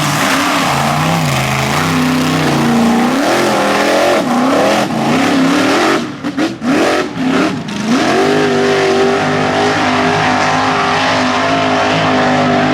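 Big V8 mud-bog truck engine revving hard, its pitch surging up and down, dipping briefly a few times about six seconds in, then holding steady at high revs.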